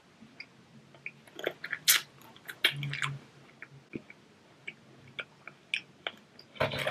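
A child chewing a mouthful of fried king crab close to the microphone: scattered wet mouth clicks and smacks, with louder clusters about two to three seconds in and again near the end.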